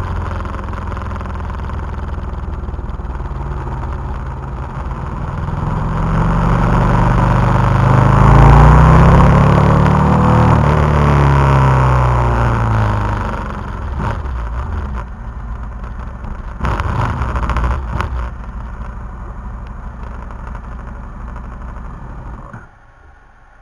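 KTM 990 SMT's V-twin engine heard from an onboard camera: it revs up and pulls hard, then winds down as the bike slows, with a few sharp clicks along the way. Near the end the engine noise drops away suddenly as the bike comes to a stop.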